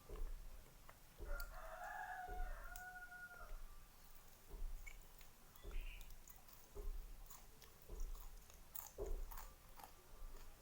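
Close-miked chewing, soft mouth thumps and clicks about once a second. A rooster crows in the background about a second in, one call lasting around two seconds.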